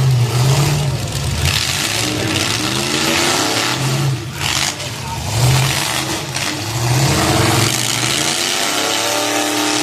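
Demolition derby car engines revving hard, pitch rising and falling again and again over a steady rumble, with a couple of sharp bangs about four seconds in.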